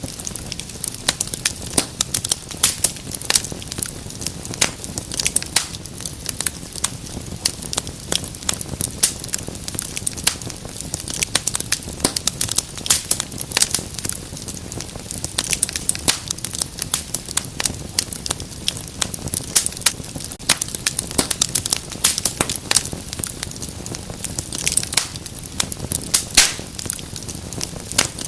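Wood fire burning in a fireplace: many irregular sharp crackles and pops over a steady low rumble of flames.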